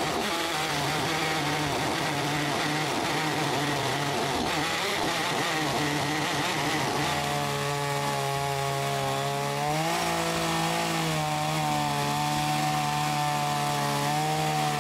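Small chainsaw running at high speed, cutting lengthwise through a wide log to finish a plank. Its pitch wavers under load at first, then holds steadier from about halfway through, with a small rise around ten seconds in.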